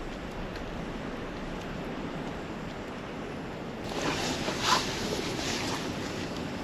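Steady wind noise of a snowstorm, with a louder, brighter rushing swell about four seconds in that peaks briefly and then eases off.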